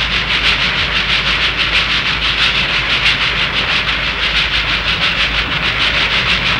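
Steam train running, a steady hissing chuff with a fast, even rhythm.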